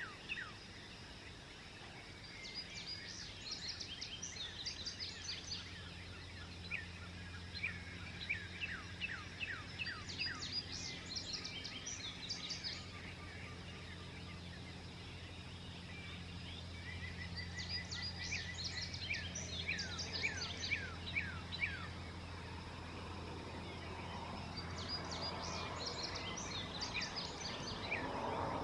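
Songbirds singing at dawn: four song bouts of quick, high, sweeping notes, each lasting a few seconds with pauses of several seconds between them. A steady low hum runs underneath and fades away near the end.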